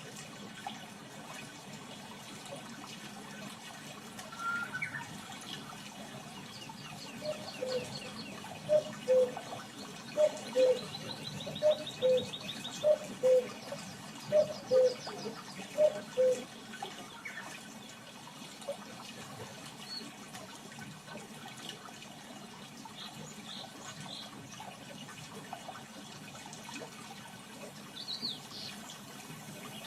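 Birds calling over a steady rush of running water. A low two-note call, the second note lower, repeats about six times in the middle, with higher chirps and trills scattered around it.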